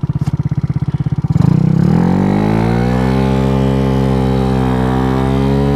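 Scooter's 88cc big-bore single-cylinder engine idling with an even pulse, then the throttle opens about a second in. The engine note rises over a couple of seconds and settles into a steady high-rev cruise.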